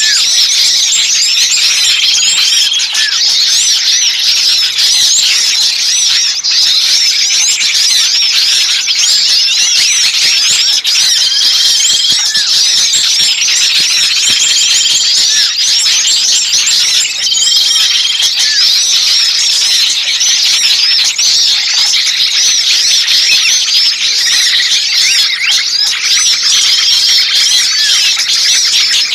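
Bird-lure recording of many small songbirds in an agitated, noisy chorus: dense overlapping chirps, trills and chatter, with a short level whistled note coming back every few seconds. It is the clamour of excited or alarmed small birds, used to draw other birds in.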